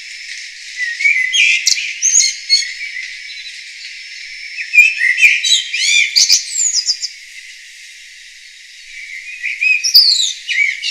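Songbirds singing and chirping in quick, high chirps and trills that come in bursts, with a short lull about two-thirds of the way through.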